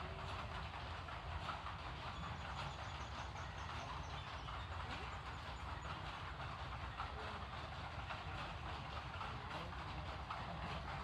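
Water flowing and splashing steadily onto plant leaves, a continuous even rush with a low rumble underneath. Faint high bird chirps come in a couple of seconds in.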